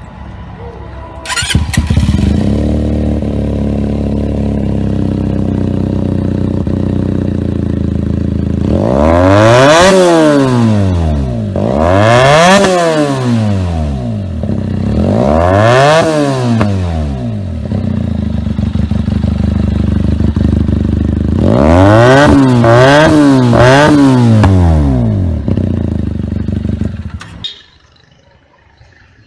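Benelli TNT300 parallel-twin engine through a loud aftermarket exhaust, starting up and idling, then revved freely in three long rises and falls followed by a quick series of short blips. The sound cuts off abruptly near the end.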